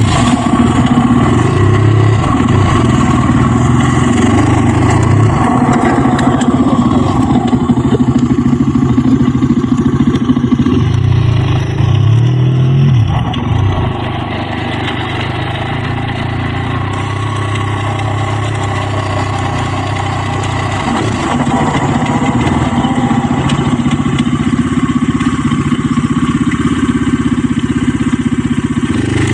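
Dirt bike engine running on an off-road trail, its revs rising and falling with the throttle. It drops to a quieter, lower-revving run about fourteen seconds in.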